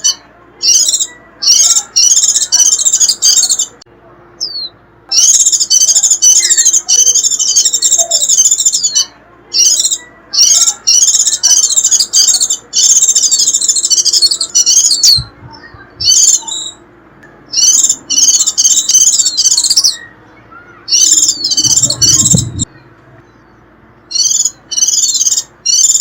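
White-eyes (vành khuyên) giving their shrill, rapid chattering 'rít' calls, loud and high-pitched, in bursts from a fraction of a second to about two seconds long with short gaps between. A low bump sounds about three-quarters of the way through.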